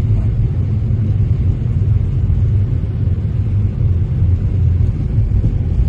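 Steady low road-and-engine rumble of a moving car, heard from inside the cabin.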